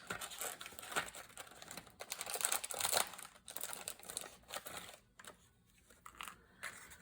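Paper and small craft pieces being handled: rustling and crinkling with many small clicks and taps, fainter for the last couple of seconds.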